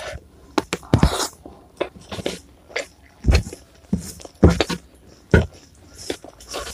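Close-miked eating: a string of irregular crisp crunches and chewing sounds as food is bitten and chewed.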